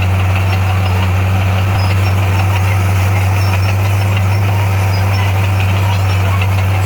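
Bulldozer's diesel engine running at a steady low hum, with no change in pitch or load.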